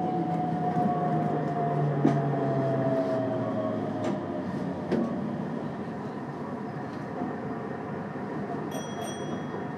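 Keikyu electric train heard from inside the car: the traction motor whine glides down in pitch as the train slows, over running noise, with sharp clacks from the wheels on rail joints about two, four and five seconds in. A brief high squeal comes near the end.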